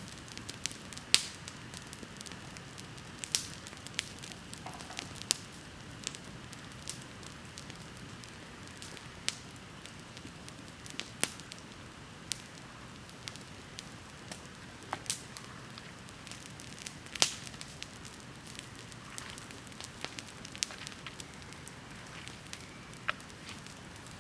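Wood bonfire crackling: irregular sharp pops and snaps over a faint steady hiss. The loudest pops come about a second in and again about two-thirds of the way through.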